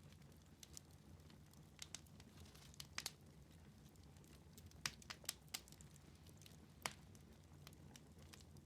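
Wood fire in a fireplace crackling, with a dozen or so sharp pops scattered through it, the loudest about three, five and seven seconds in, over a faint low steady rumble of the flames.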